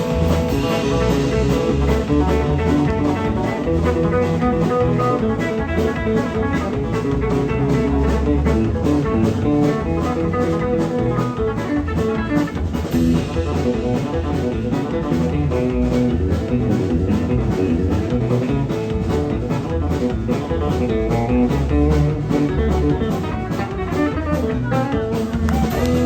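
Live country band playing a fast instrumental number with a quick, steady beat.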